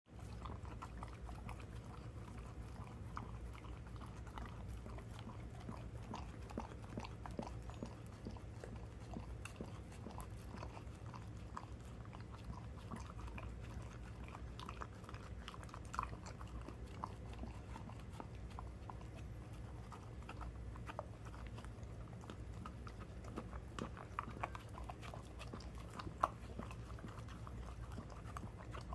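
A dog eating, chewing with many small scattered clicks and smacks over a steady low hum.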